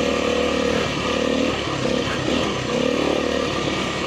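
Kawasaki KLX300R's single-cylinder four-stroke engine running while the bike is ridden on a dirt trail, its revs rising and falling repeatedly with the throttle.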